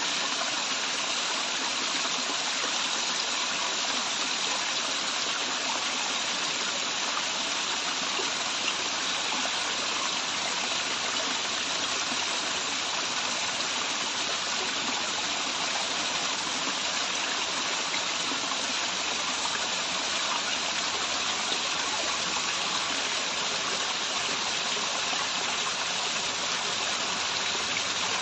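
Waterfall and its stream of running water, a steady even rush with no change.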